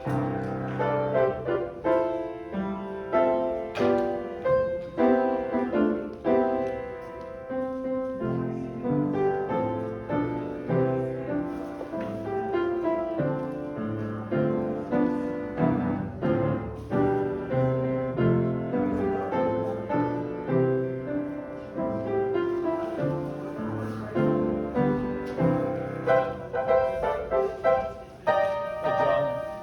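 Piano playing a hymn arrangement: a flowing melody over steady chords, at an even moderate level.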